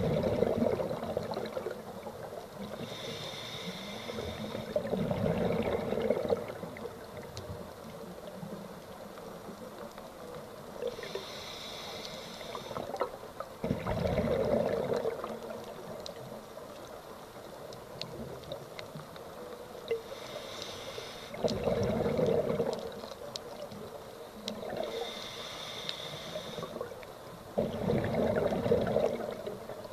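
Scuba diver breathing through a regulator underwater: a hissing inhale, then a louder, rumbling burst of exhaled bubbles, repeating about every seven to eight seconds.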